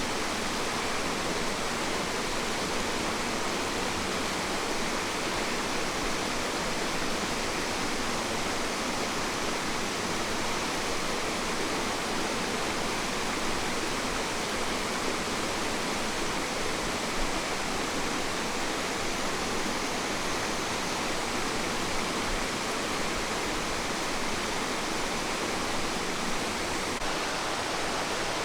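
Rushing water: a steady, unbroken hiss of falling or fast-flowing water, even in level throughout.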